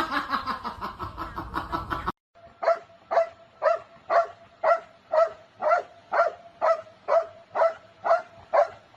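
A dog barking in a steady, even rhythm, about two barks a second and about a dozen in a row, each bark at the same pitch. The barks start a couple of seconds in.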